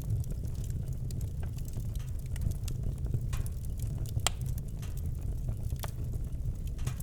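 Campfire crackling: irregular sharp pops and snaps, the strongest about four seconds in, over a steady low rumble.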